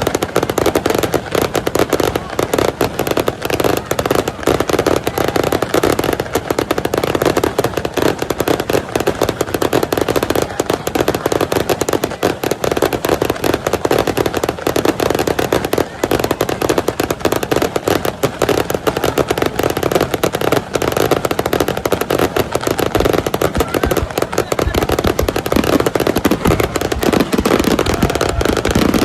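A dense barrage of fireworks: many bangs and crackles following each other in rapid, unbroken succession.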